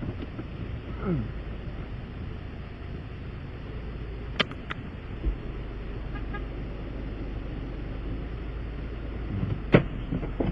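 Steady low vehicle rumble, with a short falling whine about a second in, two sharp clicks near the middle and a loud sharp knock near the end.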